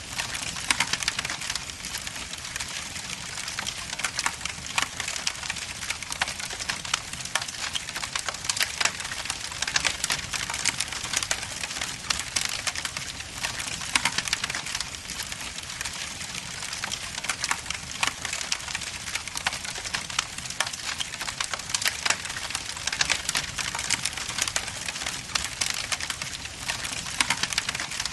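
Wood log fire in a fireplace crackling steadily, with many sharp snaps and pops of varying strength over a soft hiss.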